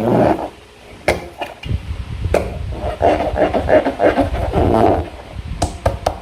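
Slime being squished and worked by hand, a wet squelching, with a few sharp clicks and taps.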